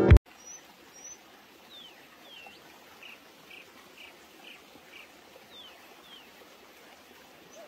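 Music cuts off abruptly at the very start, leaving faint birdsong over a soft background hiss: a couple of short high chirps, a run of about five evenly spaced notes, and several quick downward-sliding calls.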